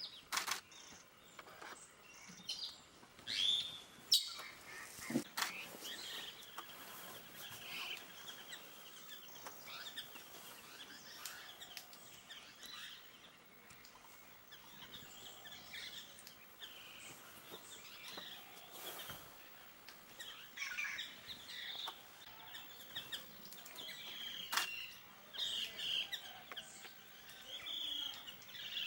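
Several forest birds chirping and calling on and off, with a few sharp clicks mixed in.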